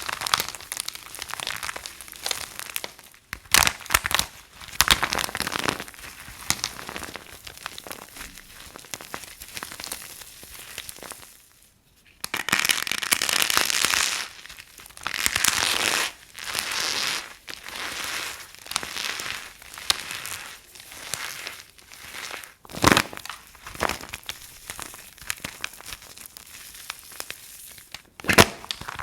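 Dry soap crunching and crumbling as it is broken up: a run of crackly crunches with sharp snaps, broken by a brief pause about twelve seconds in.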